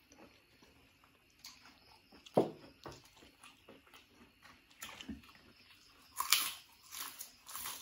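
Close-miked chewing of raw vegetables: wet mouth clicks and smacks, with a sharp crunchy bite about six seconds in.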